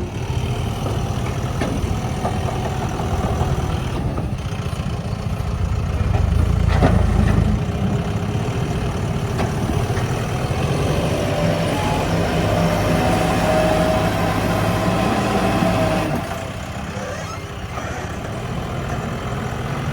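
Heavy diesel engines of construction machinery running steadily, swelling louder briefly about six to seven seconds in. A thin steady whine sits over the engines for a few seconds around the middle.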